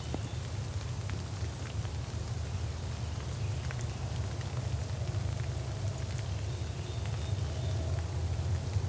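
Steady rain falling on the woods, with scattered drip ticks over a constant low rumble.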